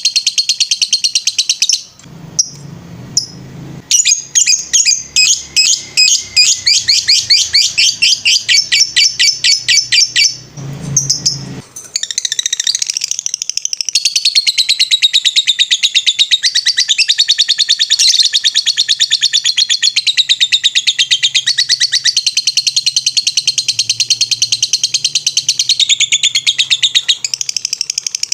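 Lovebird (Agapornis) singing a long, rapid, high-pitched chattering trill, the unbroken 'ngetrek' song. It runs as quick repeated notes about five a second, then as one continuous trill from just under halfway on. It breaks twice briefly, with a low rumble in the gaps.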